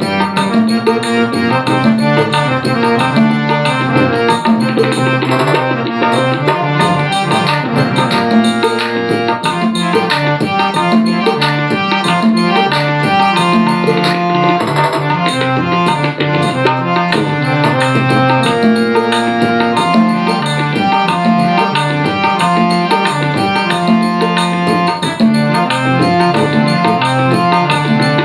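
Instrumental interlude of a Rajasthani devotional bhajan: a hand drum keeps a steady rhythm under a melody of held notes on a keyboard instrument, with no singing.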